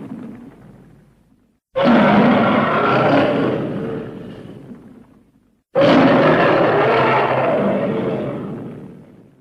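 Custom roar sound effect for the Narglatch, a lion-like Star Wars alien, built from lion, mountain lion and King Caesar roars. The last of one roar dies away, then two loud roars break in suddenly, about two seconds and six seconds in, each fading out over about three seconds.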